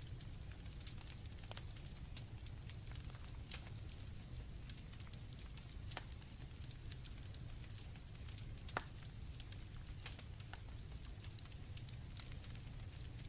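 Campfire crackling with many small sharp pops and one louder crack about two-thirds of the way through, over a steady high chirring of crickets.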